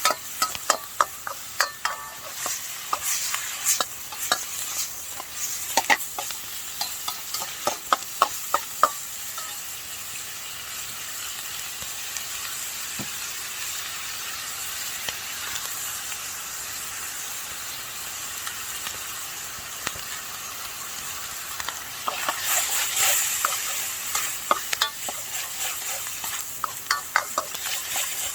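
Food sizzling in a Chinese wok while it is stir-fried, with a utensil clacking against the wok in quick runs; for a stretch in the middle only the steady sizzle is heard.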